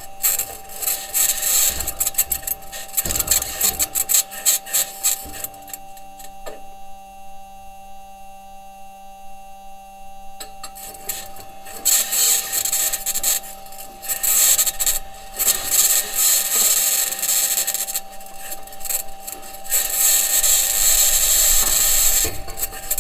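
Perseverance Mars rover's wheels and suspension scraping and grinding over the ground as it drives, heard raw through its onboard microphone, with a steady whine running underneath. The scraping eases for about four seconds in the middle, leaving the whine and a faint hum, then returns and grows heavier near the end.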